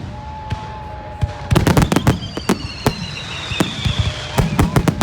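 Fireworks going off: a rapid run of sharp bangs and crackles, with a high whistle falling slowly in pitch through the middle.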